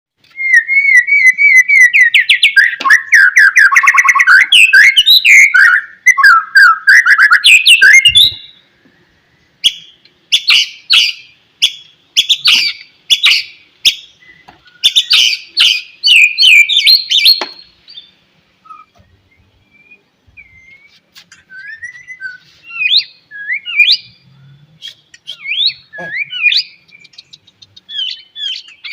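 White-rumped shama (murai batu) song: fast, loud, varied whistled phrases, then after a short pause a run of sharp clicking, rattling notes, and then quieter scattered whistles and chirps.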